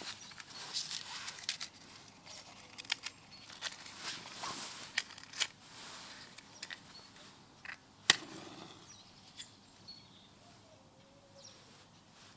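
Outdoor wood fire being started, kindling crackling and snapping irregularly, with one loud sharp snap about eight seconds in; the crackles thin out toward the end.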